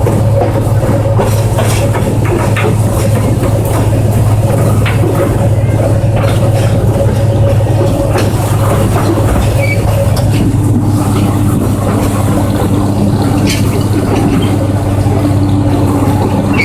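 Running noise of a tourist train, heard from aboard: a steady low drone with scattered clicks and rattles. A second, lower tone joins about ten seconds in.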